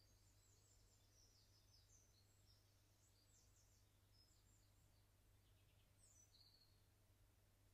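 Faint birdsong: several small birds giving quick, high chirps and trills, busiest in the first few seconds and again about six seconds in, over a low steady rumble of background noise.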